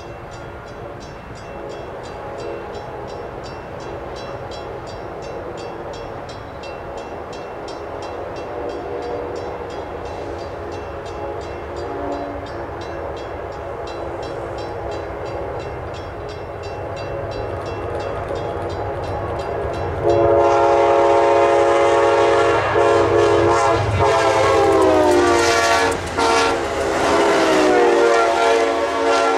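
Train hauled by a GE P40DC diesel locomotive approaching, its rumble growing slowly louder. About two-thirds in, the locomotive's horn sounds loud, and it drops in pitch as the train passes, with the coaches rolling by behind.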